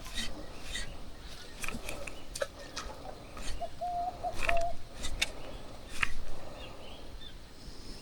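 A bird calling a quick run of short, even-pitched hooting notes about halfway through, with scattered sharp clicks and knocks around it.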